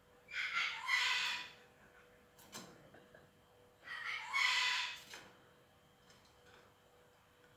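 Hill myna giving two loud, harsh calls about a second long each, roughly three and a half seconds apart.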